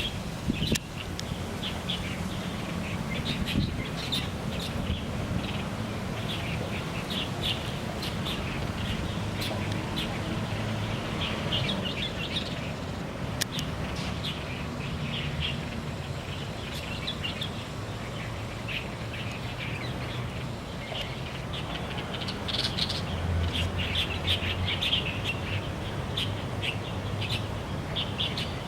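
Light-vented bulbuls (Chinese bulbuls) singing and calling in a run of short, bright chirps, over a steady low background hum.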